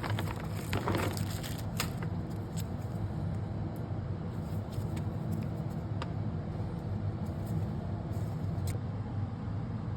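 A steady low hum, with a few light clicks and rustles as small parts and packaging are handled.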